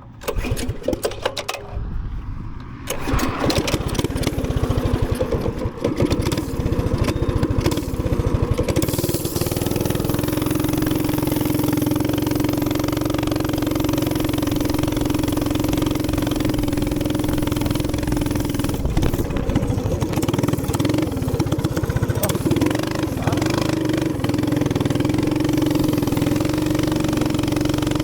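Minibike's small gas engine running unevenly for the first several seconds, then settling into steady running about nine seconds in.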